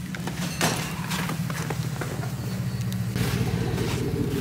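Steady low hum of a running vehicle engine, with footsteps and a few sharp clicks over it; the hum grows fuller about three seconds in.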